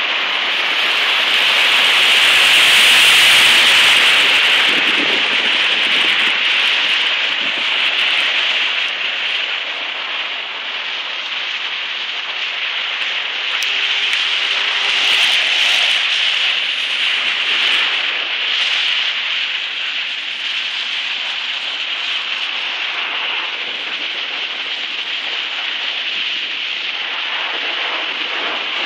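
Steady hiss and rush of water on a flooded street, swelling as vehicles plough through it and throw up spray. It is loudest about three seconds in, with another swell around fifteen seconds.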